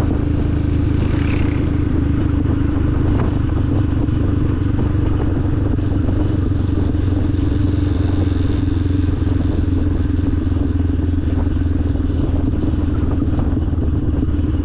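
Motorcycle engine running at a steady cruise under the noise of the ride, its pitch holding even with no revving.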